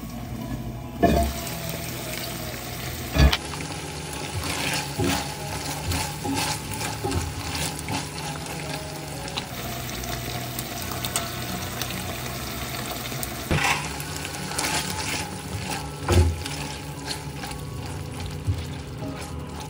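Beef chunks sizzling in a thick, reducing sauce with melting butter in an enamelled braiser, a steady frying hiss. A spoon stirs and scrapes through it, knocking sharply against the pan several times.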